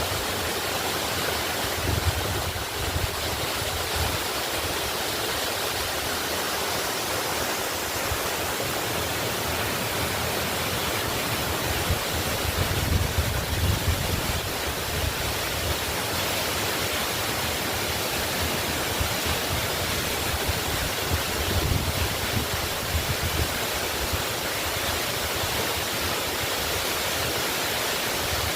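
Waterfall rushing in a steady, dense hiss of falling water, with low rumbling swells now and then.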